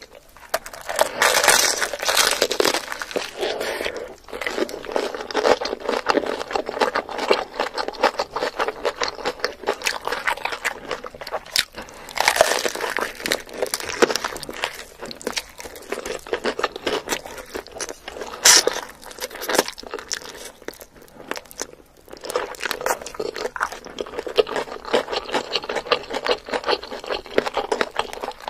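Close-miked crunching and chewing of crispy fried chicken: repeated bites into the coating with wet mouth sounds, pausing briefly now and then, with one sharp loud crunch about two-thirds of the way through.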